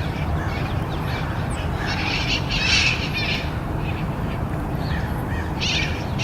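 Wild parrots calling from a treetop: a few harsh squawks, loudest about two to three and a half seconds in and again near the end, over steady low background noise.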